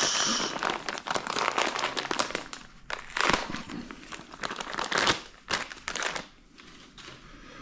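Crinkling rustle with scattered sharp clicks and knocks from parts being handled by hand. It dies down about six seconds in.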